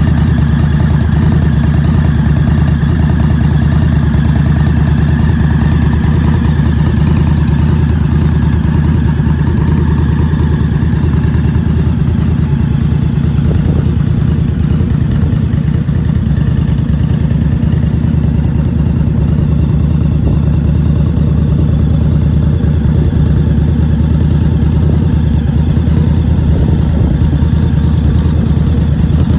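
Indian Scout motorcycle's V-twin engine idling steadily.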